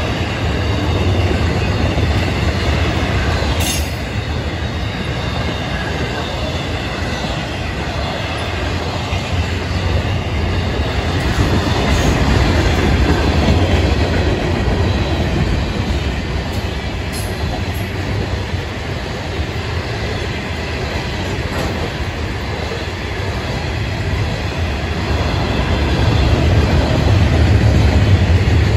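Freight train cars rolling past close by, intermodal cars and then gondolas: a steady rumble with wheels clattering over the rail joints, growing louder near the end.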